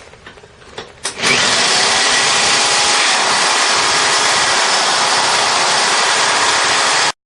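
Electric drill boring into a steel chrome motorcycle muffler, starting about a second in, running steadily at full speed, and cutting off abruptly near the end.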